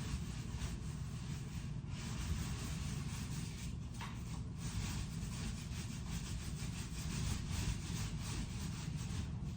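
Paint roller rolling semi-gloss paint onto a wall in long back-and-forth strokes, a steady sticky rubbing with short breaks between strokes.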